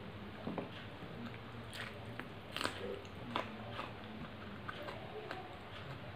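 Close-miked eating sounds of a person chewing a mouthful of rice and fish curry, with scattered short sharp mouth clicks and smacks, the loudest a little past halfway.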